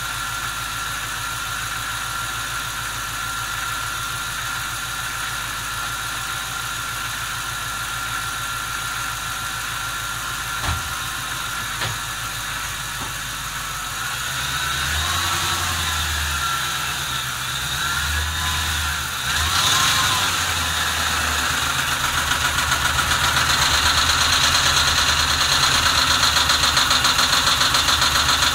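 2006 Ford Mustang GT's 4.6-litre V8 idling warm but rough and uneven. A deep low rumble comes in about halfway and grows louder, with a steady fast pulsing toward the end.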